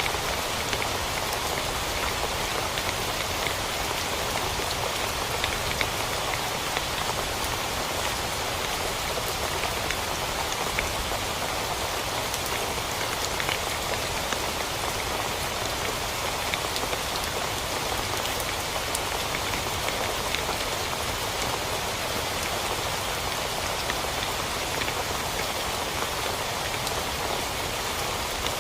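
Steady heavy rain falling on a tent, an even hiss of rain sprinkled with many small, sharp drop hits.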